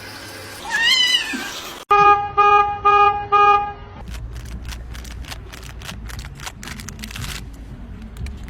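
A cat meows once, rising and falling, about a second in. Then come four short, evenly spaced toots at one steady pitch, followed by a stretch of clattering clicks over a low rumble.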